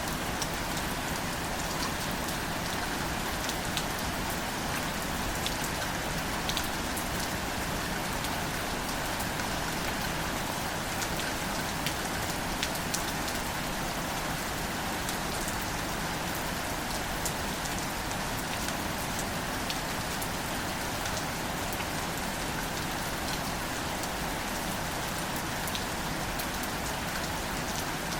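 Gentle, steady rain falling on wildflowers, with scattered individual drops ticking sharply.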